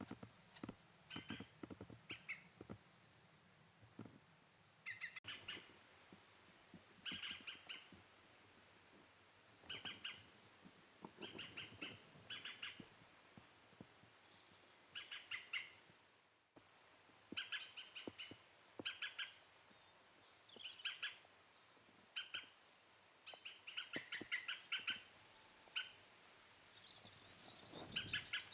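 Green woodpecker calling: short bursts of a few rapid, sharp notes, repeated every second or two.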